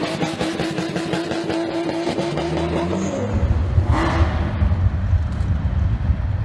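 High-performance car engine held at raised revs, its note slowly climbing. About three seconds in it gives way abruptly to a second engine's deep, loud exhaust rumble, with a brief hiss about a second later.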